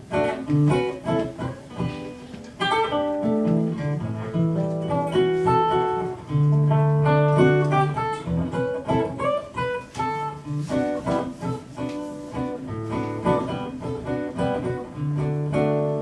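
Guitar playing an instrumental break in a soft pop song: a picked melody over low held bass notes, with no singing.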